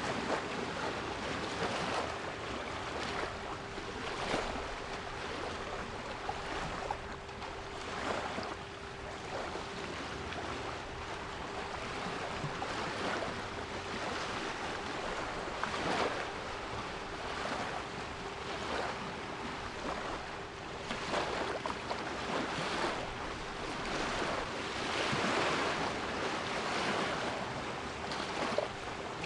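Sea waves breaking and washing in, swelling and easing every few seconds, with a steady 396 Hz pure tone held underneath.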